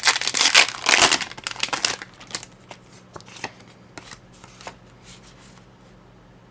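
Pokémon trading cards from a booster pack being handled and shuffled. A dense papery rustle lasts about two seconds, then scattered light flicks and taps follow for a couple of seconds more.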